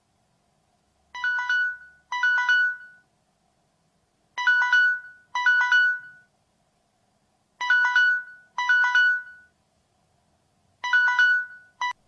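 Mobile phone ringtone ringing: a short two-note electronic phrase repeated four times, about every three seconds, the last one cut short near the end.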